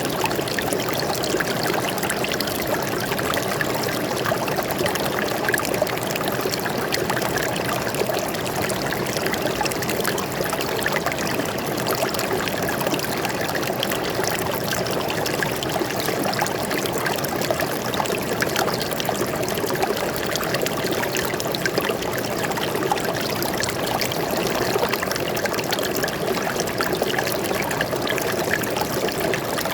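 Water flowing and trickling steadily over stones in a forest stream, a continuous babble with no breaks.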